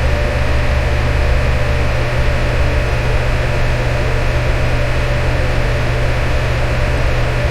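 Electric fan running steadily: a low motor hum under an even rush of air, with a faint steady tone above it.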